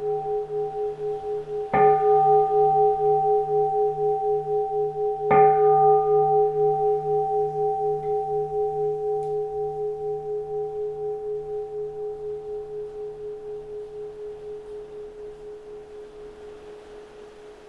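Keisu, a Zen temple bowl bell, struck twice about three and a half seconds apart while still ringing from an earlier stroke. Each strike gives a bright attack and then a deep, many-toned ring with a slow wavering pulse, which fades gradually over the following dozen seconds.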